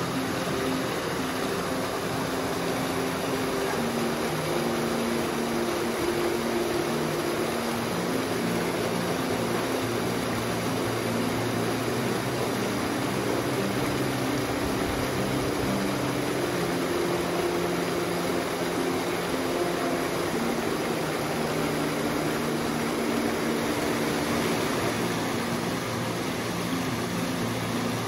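Steady rush of water from a small, partly frozen mountain waterfall and the stream below it. Faint low held notes sit underneath, changing pitch every few seconds.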